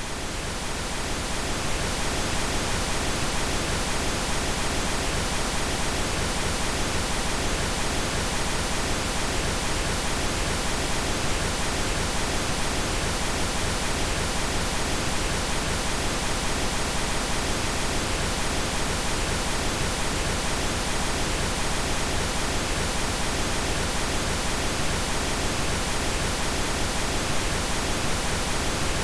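Synthetic pink noise, a steady even hiss across all pitches. It fades up over the first couple of seconds, then holds level.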